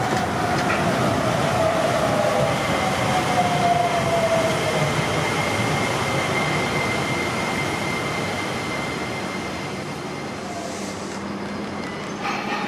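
New Shuttle 2000-series rubber-tyred guideway train rolling into the station. Tyre rumble on the concrete guideway comes with an electric motor whine that falls slowly in pitch as the train slows, and a thin high tone holds steady through the middle. It is loudest about four seconds in, then fades as the train moves off down the platform.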